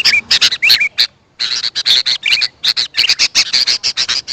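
Sooty-headed bulbuls (kutilang) calling: a rapid run of sharp chirps, several a second, with a few short rising whistles. There is a brief pause about a second in.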